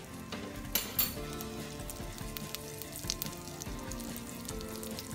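A lump of butter melting and sizzling in a hot pan, a steady fine crackle, with background music underneath.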